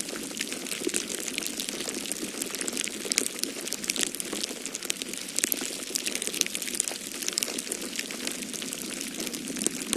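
Wood fire in a fireplace crackling, with frequent small irregular pops over a steady rushing of storm wind.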